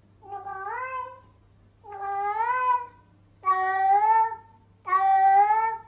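Domestic cat meowing four times in a row, each a drawn-out call of about a second that rises in pitch at the start and then holds.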